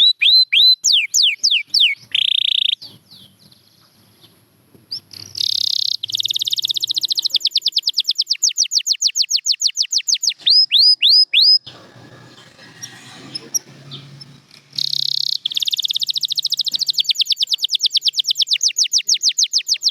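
Domestic canary singing: long, fast trills of evenly repeated falling whistled notes, with a short buzzy roll about two seconds in, broken by two pauses of a few seconds.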